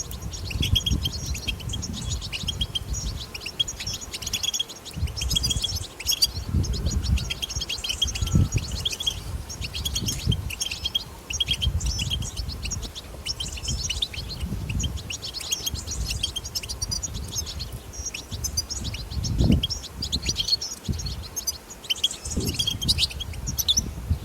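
European goldfinches twittering: rapid, continuous high chattering calls. A low, uneven rumble runs underneath.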